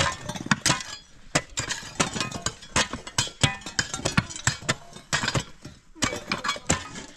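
A rapid, irregular series of knocks and clinks from hard objects striking each other, several a second.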